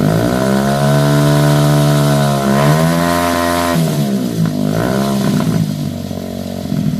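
Car engine revved hard through a loud performance exhaust: held at high revs for about two seconds, dipping and climbing again, then dropping back with a few shorter blips before settling to a lower note.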